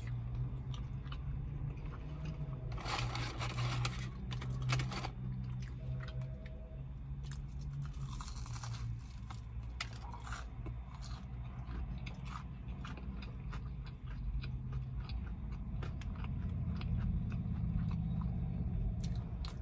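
A person chewing and crunching fast food, curly fries among it, close to the microphone, with a louder stretch of crunching about three to five seconds in. A low steady hum from outside comes in through the open car windows.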